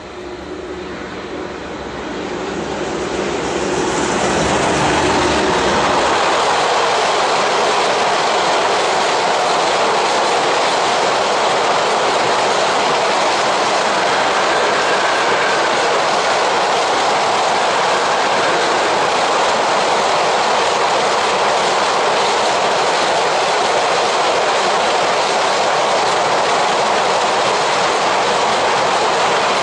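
Siemens ES64 U2 (Taurus) electric locomotive approaching and passing, its low hum growing louder over the first few seconds. It is followed by a long freight train of enclosed double-deck car-carrier wagons rolling past with steady, loud wheel-on-rail noise.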